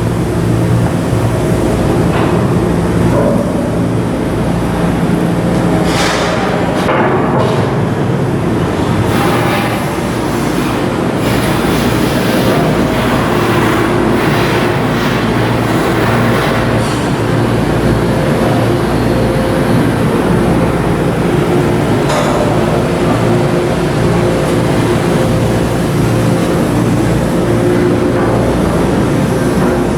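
Steady, loud machinery noise of shipbuilding work, a constant low hum with a few sharp metal knocks now and then.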